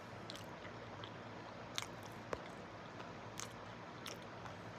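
Close-up chewing of a chocolate-dipped banana coated in pistachios and almonds, with a few short, sharp mouth clicks and crunches.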